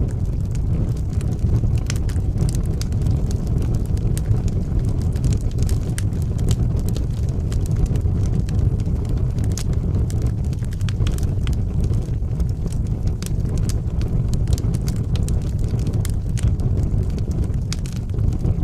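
Wood fire burning in a fireplace: a steady low rumble of flames with frequent small, sharp crackles and pops.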